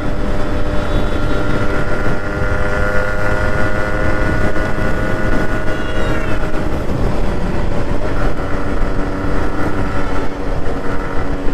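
Yamaha RX 100's small single-cylinder two-stroke engine running steadily under way at highway speed, over a heavy low rumble of wind and road. Its note falls away briefly about six seconds in, then picks up again.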